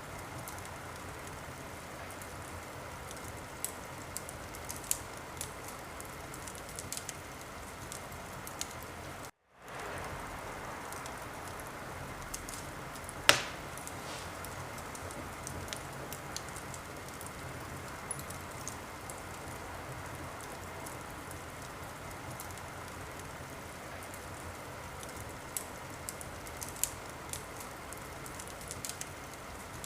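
Wood fire in a fireplace crackling: a steady hiss with scattered small pops and one louder crack about a third of the way in. The sound cuts out briefly about nine seconds in.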